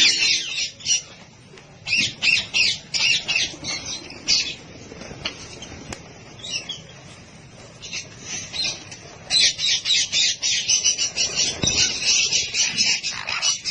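A flock of birds calling and squawking in quick, short, high notes. It comes in scattered clusters at first, then turns into a dense, nonstop chatter from about the middle on.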